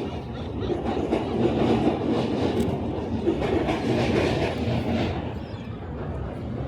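A rail vehicle passing close by, its wheels clattering on the rails. It grows louder, then fades over the last couple of seconds.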